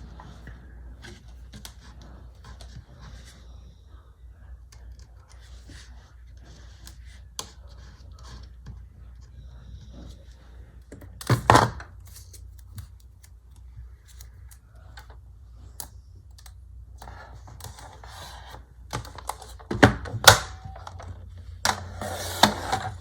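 Desk crafting sounds as paper and sticker sheets are handled: scattered light taps and clicks. Louder clacks come about halfway through and again near the end, followed by a burst of paper rustling.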